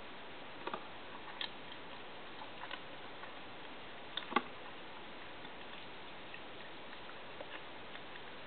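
Faint, irregular small clicks and ticks over a steady hiss, the loudest a short double click about four seconds in.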